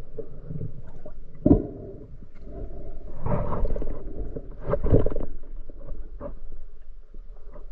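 Water splashing and gurgling in irregular surges, over a steady low rumble.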